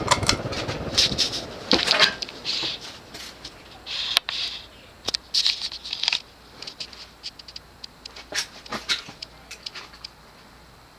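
Moss Hi-Line 42-inch ceiling fan with a cast-iron CEC motor coasting down after being switched off from high speed. Its hum dies away in the first couple of seconds, then irregular clicks, rattles and short airy swishes come further and further apart and fade out as the fan slows.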